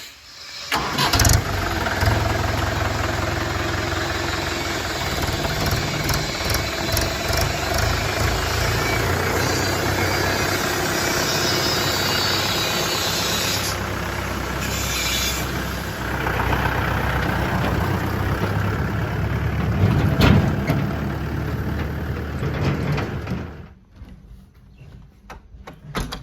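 Diesel engine of heavy earthmoving machinery running steadily under load, with a sharp knock about a second in and another about twenty seconds in. The engine sound drops away suddenly near the end.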